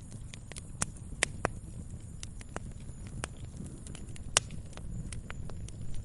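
Wood fire crackling in a fireplace: irregular sharp pops and snaps, a few each second, over a low steady rumble of the burning. The loudest snap comes about two-thirds of the way through.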